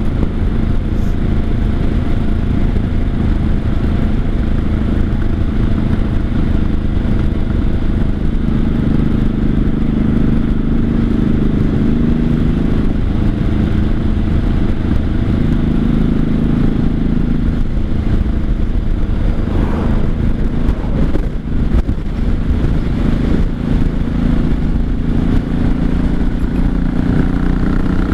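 1983 Honda Shadow VT750C's V-twin engine running loud through straight open exhaust pipes while riding, its pitch rising and falling a few times as the throttle is opened and closed, with revs climbing near the end. The rider says the engine pulls with no dead spot.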